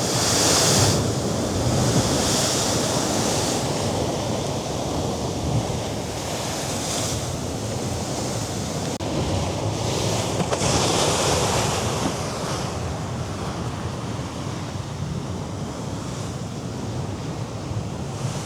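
Mediterranean surf breaking and washing against the rocks below the cliffs, with wind over the microphone. The wash swells several times, strongest near the start and again about halfway through, and eases off toward the end.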